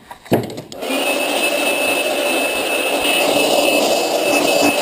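A motor running steadily with a thin high whine over a rushing noise. It starts about a second in and cuts off suddenly at the end.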